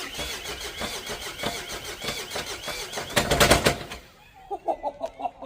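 2016 Renault Trafic's diesel engine running with a loud, rapid knocking and a wavering high whine over it, getting louder near the end and then switched off about four seconds in: the sign of massive internal engine failure.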